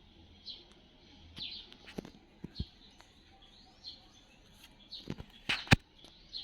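A bird chirping over and over, a short high chirp about once a second, with several sharp clicks or knocks, the loudest near the end.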